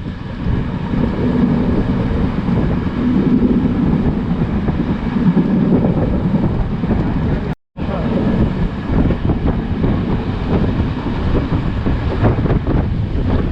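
Class S13 diesel multiple unit running at speed: a steady rumble of the train with heavy wind buffeting the microphone. The sound cuts out completely for a split second a little past halfway.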